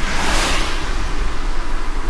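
A car driving in light rain: a steady low road rumble under an even hiss. About a quarter-second in, a brief hissing whoosh swells and fades.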